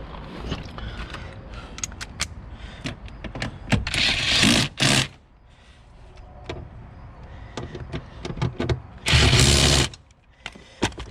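Socket wrench with a 14 mm socket working the car seat's mounting bolts: scattered metallic clicks and knocks, with two loud bursts of about a second each, a little under halfway in and again near the end.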